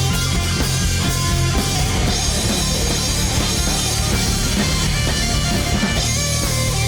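Rock band playing an instrumental passage: distorted electric guitars over bass and a drum kit, steady and loud.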